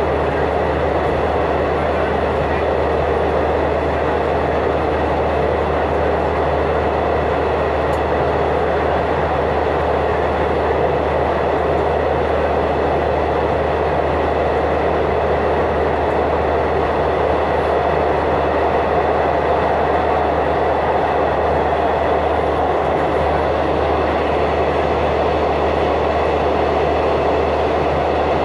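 Passenger train in motion, heard from inside the carriage: a loud, steady rumble with no break or change.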